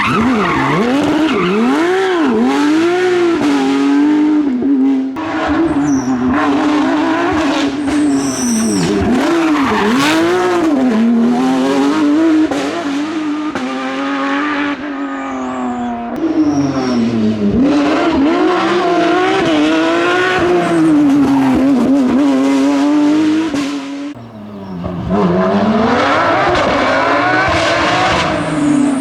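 Porsche 911 GT3 rally car's flat-six engine, revving hard and falling back again and again as it shifts and brakes for corners. The engine dips away briefly about 24 seconds in, then climbs back.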